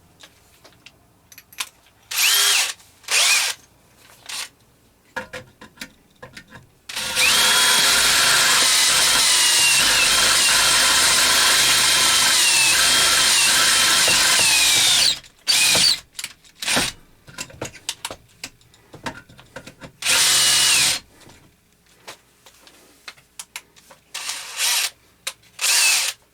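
Handheld electric drill with a 1/4 inch bit boring a hole in metal: a couple of short trigger bursts, then one long steady run of about eight seconds whose pitch sags now and then under load, then more short bursts with small handling clicks between.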